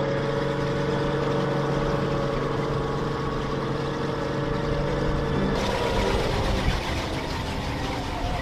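A vehicle engine running steadily with a low hum. About five and a half seconds in, the hum gives way to a noisier rumble.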